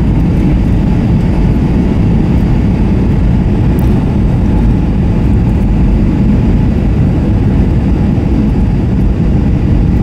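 Steady cabin noise of an Airbus A321-232 airliner: a loud, even rumble of engine and airflow with a fainter hiss above it.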